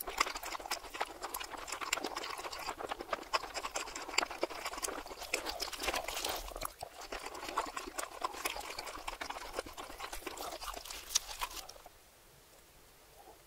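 Close-miked chewing and crunching of a crusty toasted cheesesteak roll, played backwards, with dense wet crackles and crunches. The chewing stops about twelve seconds in, leaving only a faint hiss.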